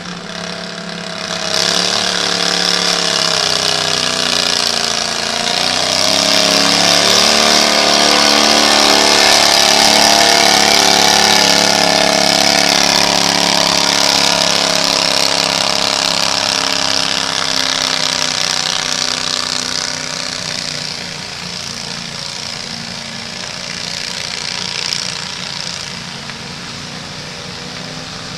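A small pulling tractor's engine running hard under load. Its pitch wavers for the first few seconds and then holds steady; it is loudest about a third of the way through and fades away over the last several seconds.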